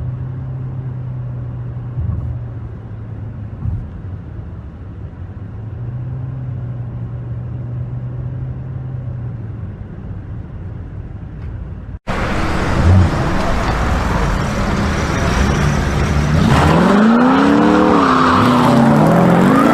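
Car driving: a steady low drone of engine and road noise as heard inside the cabin. About twelve seconds in it cuts sharply to louder vehicle noise, with several rising-and-falling pitched sounds near the end.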